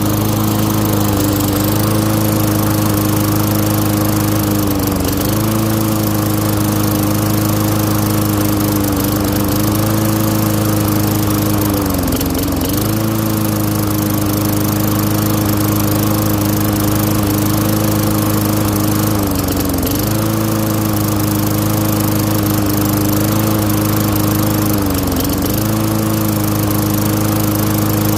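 Small Tecumseh single-cylinder engine on a Craftsman walk-behind lawn mower running steadily. Its speed dips briefly and recovers about every six or seven seconds.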